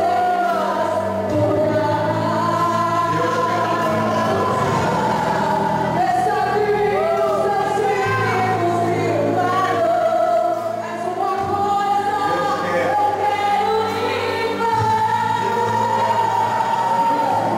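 Gospel music with a choir singing over sustained bass notes.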